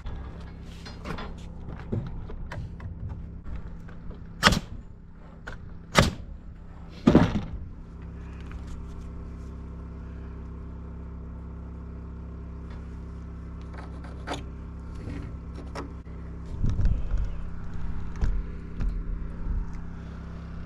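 Studs being nailed into wall framing: three sharp, loud knocks a second or so apart, over a steady low hum. A few duller thumps follow near the end.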